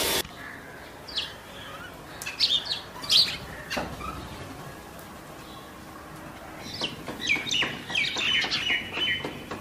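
Small birds chirping in short, sharp, downward-sweeping calls: a few scattered chirps, then a quicker run of them near the end. Just at the start a steady machine noise cuts off abruptly.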